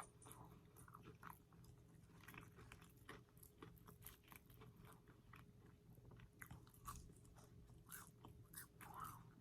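Faint close-up chewing: irregular soft crunches and mouth clicks as a person eats fast food.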